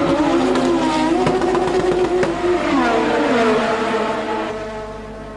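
1984 Formula One cars' engines at high revs, their pitch rising and falling as the cars accelerate and pass. About three seconds in the pitch falls, and near the end the sound drops to a quieter, steady engine note.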